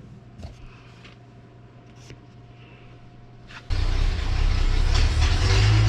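A hot rod's engine starts suddenly about two thirds of the way in and runs loudly. Before that there is only a faint steady whine and a couple of small clicks.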